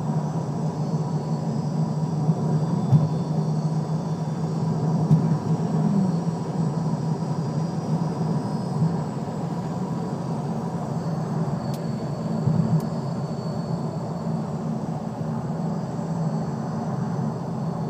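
Lexus LS430 running, with a steady high whine held over a low, even drone.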